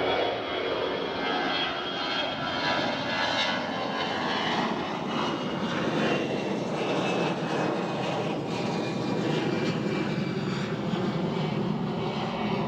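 AirAsia jet airliner taking off, its engines at takeoff power giving a steady loud roar with faint whining tones in it.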